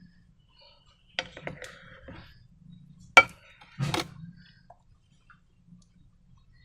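Slime-making materials being handled: a few sharp clicks and knocks, the loudest about three seconds in, with softer scratchy crackling between them.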